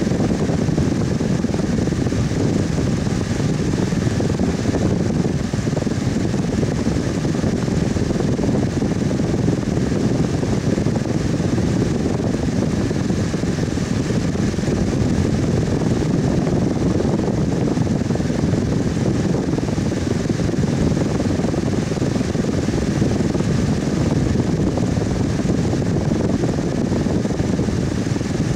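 Electric fan running steadily: an even low whooshing hum with faint steady tones above it.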